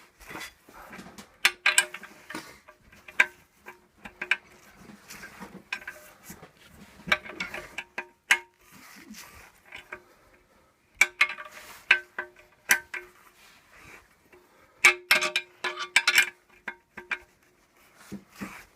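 Sharp metal strikes on a cast-iron stove top plate, each ringing at the same pitch, in irregular clusters of taps, as the knockout disc is driven out of the lid to open the flue hole.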